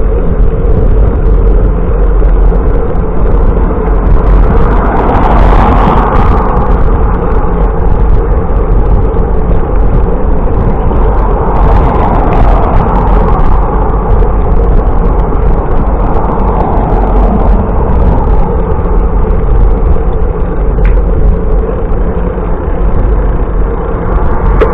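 Wind buffeting the microphone of a camera on a moving bicycle, a loud steady rumble with road noise, swelling a few times.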